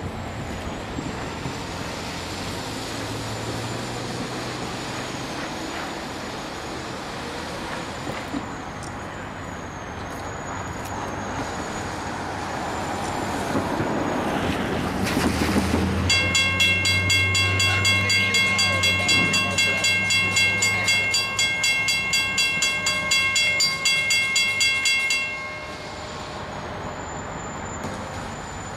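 Diesel locomotives running slowly behind a heavy load car, with their engines humming low and the train's noise building as it draws near. About halfway through, a bell starts ringing at about three strikes a second. It rings for roughly nine seconds, then stops suddenly.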